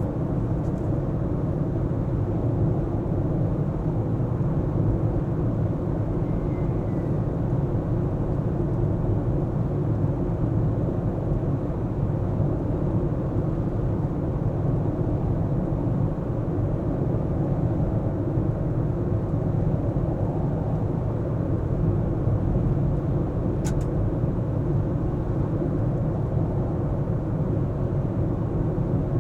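Car driving on city streets: a steady low rumble of tyres on the road and engine, with a brief faint tick about three-quarters of the way through.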